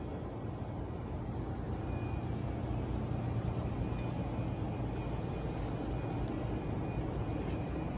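Subaru WRX STI's turbocharged flat-four boxer engine idling steadily, a low even hum.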